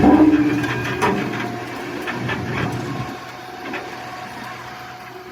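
Machinery running with a low steady hum, with several sharp knocks and clatters in the first second or so and a few more after. It grows quieter toward the end.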